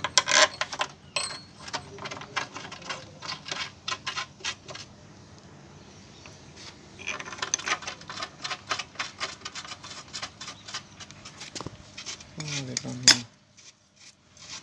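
Metal hand tools clicking and clinking against steel parts while bolts are fitted and tightened. The clicks come in two long, rapid, uneven runs with a pause between them, and end with one loud click near the end.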